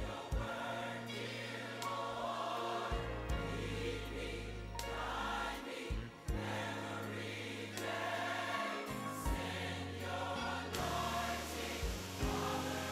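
Music: a choir singing over held bass notes that change every second or two.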